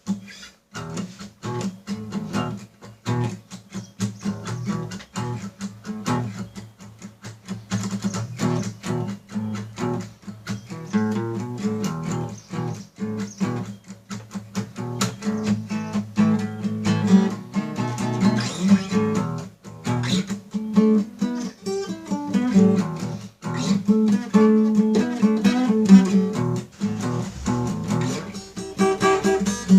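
Acoustic guitar music, plucked and strummed, a dense run of notes.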